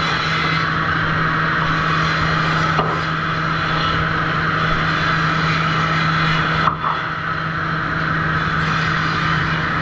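Sawmill machinery at a trim saw running steadily, with a constant low hum under the mechanical noise. Two brief knocks come about three and seven seconds in.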